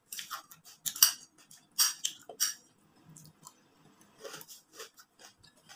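A person chewing a mouthful of puffed rice with yogurt: short, sharp crunches and clicks, loudest about one and two seconds in, then fainter.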